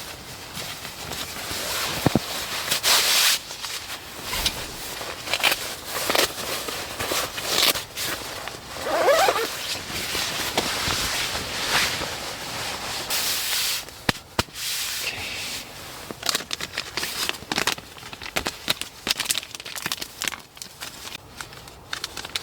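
Rustling and crinkling of nylon outdoor clothing as a down jacket is changed into, with irregular swells of noise and many small clicks.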